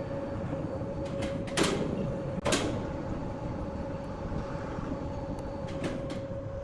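Large sawmill wood saw running with a steady hum and rumble, with two loud knocks less than a second apart about a quarter of the way in.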